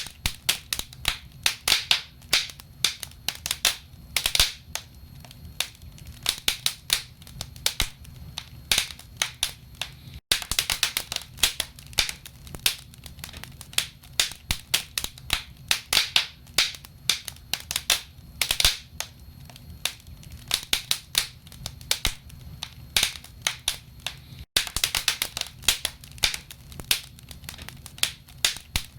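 Wood fire crackling in a fireplace: dense, irregular sharp pops and snaps of burning logs over a low steady rumble. The sound cuts out for an instant twice, about ten seconds in and again near the end.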